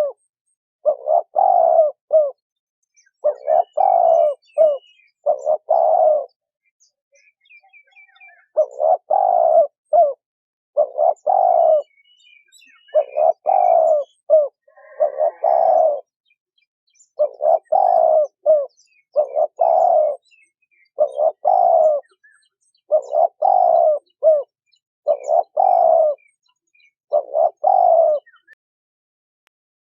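Female spotted dove cooing: a short phrase of a few coo notes repeated about every two seconds, with one longer pause about a third of the way in. This is the female's call used to stir male doves into calling.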